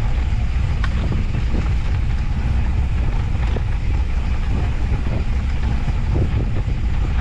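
Steady low wind rumble on the microphone as an off-road handcycle rolls along a dirt trail, with a few light ticks and rattles.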